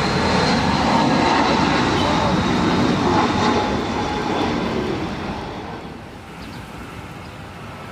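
Boeing 747-400's four turbofan engines as the jumbo jet passes close by on its landing, a loud, steady jet noise that fades away about five seconds in.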